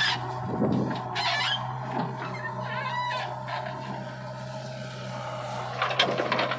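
Diesel engine of a backhoe loader or tractor running steadily at a low hum, with a few short bird calls over it about a second in and again around three seconds in.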